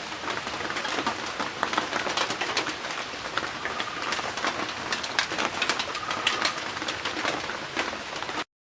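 Steady heavy rain pattering on a surface, a dense run of drop impacts. It cuts off abruptly near the end.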